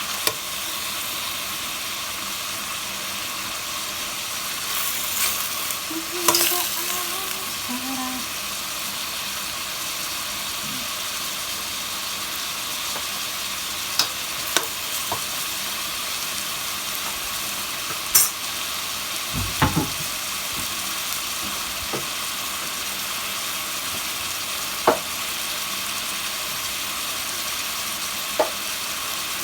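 Chicken pieces frying in hot oil in a pot, a steady sizzle, browning in their own fat. A few short sharp clicks and knocks break in now and then.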